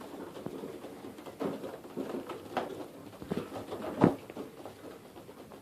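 Pigeons moving about in a loft: scattered soft taps and rustles of feet and wings, with one sharper tap about four seconds in.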